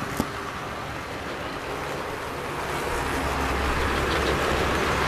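Model train running on the layout track: a steady rumbling noise with one click just after the start, then a low hum joins and the sound grows louder for the last couple of seconds.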